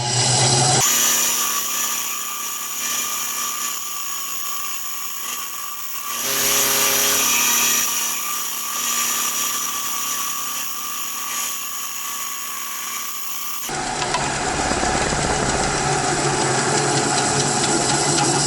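A 10-inch benchtop bandsaw running steadily and cutting through a block of glued-up 2x4 lumber. The sound changes abruptly twice, about a second in and again about 14 seconds in.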